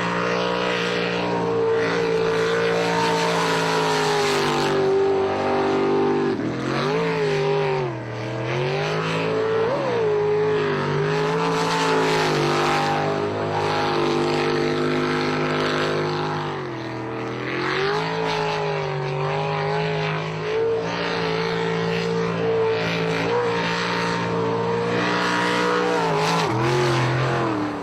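Motorboat engine running steadily. Its pitch drops and climbs back a few times: about a quarter of the way in, again past the middle, and near the end.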